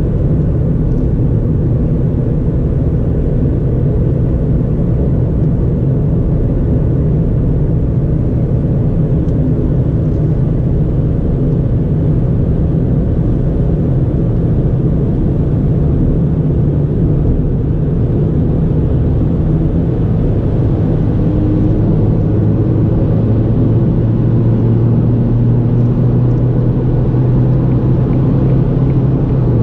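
2009 Ford Fiesta 1.4 four-cylinder petrol engine and tyres while driving: a steady low drone of engine and road rumble. About twenty seconds in, the engine note holds a steadier, slightly stronger hum.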